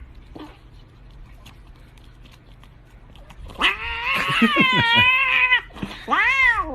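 Domestic cat meowing: a long, wavering, drawn-out yowl about halfway through, then a shorter meow that rises and falls near the end.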